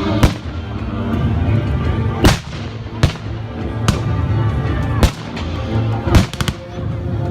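Blank-firing weapons shooting during a battle reenactment. The single shots come every second or so, with a quick burst of three or four near the end, over steady background music.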